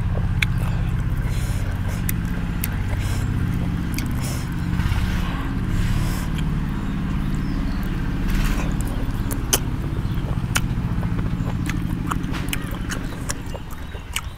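Close-up eating sounds of charred chicken torn by hand and chewed: repeated sharp mouth clicks and smacks with brief crunchy chewing, over a steady low hum.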